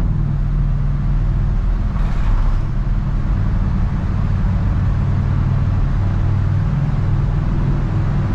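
Ford Econoline E-150 van driving, its engine and road noise making a steady low drone.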